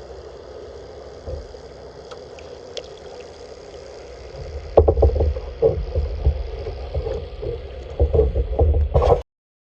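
Kayak paddling on open water: a steady wash of water for the first few seconds. From about halfway, a run of irregular knocks and splashes from the paddle and hull, which cuts off suddenly near the end.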